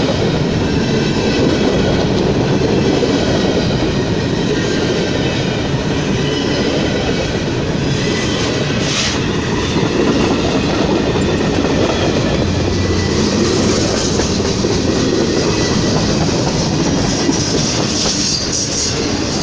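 A train's cars rolling past at close range, wheels clacking over the rail joints in a steady, loud run.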